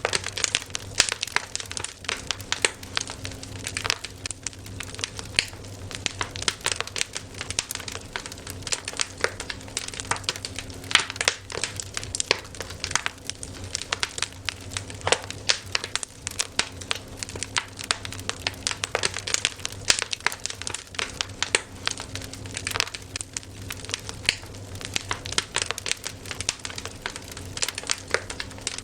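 Wood fire crackling: a dense stream of irregular snaps and pops over a steady low hum.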